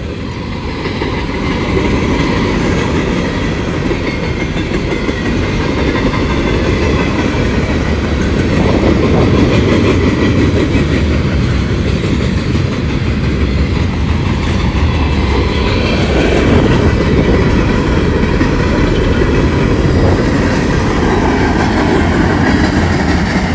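Freight train cars (covered hoppers, a steel-coil car, coal hoppers) rolling past close by: a loud, steady rumble of wheels on rails.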